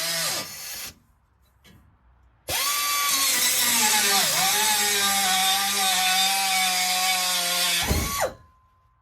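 Angle grinder cutting through a truck's steel exhaust pipe. It stops just before a second in, then about two and a half seconds in spins up with a rising whine, drops in pitch as the disc bites, and runs steadily under load with a loud hiss for about five seconds before it is switched off and winds down; this cut severs the pipe.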